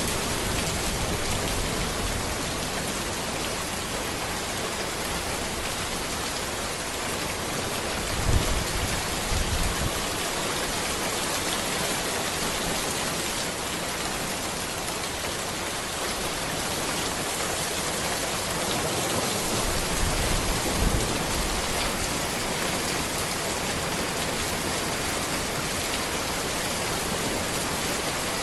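Steady rain falling on a road among trees, a dense even hiss. Brief low thumps come about eight seconds in and again about twenty seconds in.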